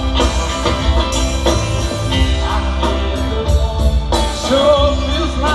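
Live band playing rock and roll, with a singer, guitar, bass and drums keeping a steady beat.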